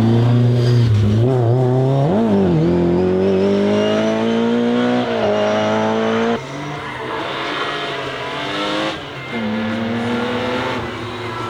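BMW E30 M3's S14 four-cylinder engine under hard throttle. It is blipped briefly about two seconds in, then revs rise steadily for about four seconds. About six seconds in the pitch and level drop suddenly, and the engine carries on pulling.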